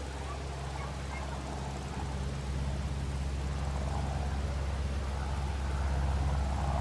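Single-engine piston propeller aircraft, a GippsAero GA8 Airvan, droning steadily and slowly growing louder as it comes closer.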